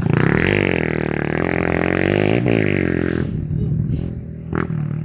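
Motocross dirt bikes passing close by, their engines revving with the pitch sweeping up and down as they go past. The sound fades away about three seconds in.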